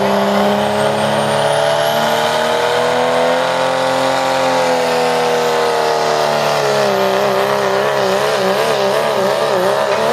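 Modified pulling truck's engine running hard at high revs under load. Its pitch rises gently and eases back, then wavers quickly up and down over the last few seconds. A thin high whine climbs about a second in.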